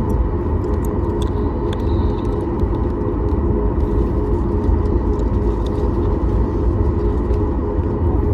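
Cabin noise of a Boeing 737 MAX 9 under way: a steady low rumble of its CFM LEAP-1B engines and the airflow, with a constant hum and a faint high whine over it.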